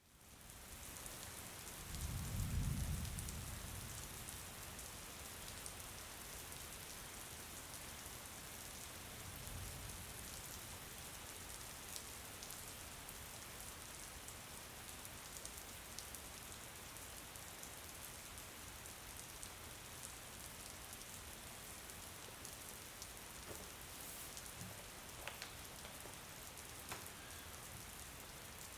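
Steady rain falling, an even hiss with scattered drop ticks, fading in at the start. About two seconds in, a low rumble swells for a second or so, with a fainter one near ten seconds.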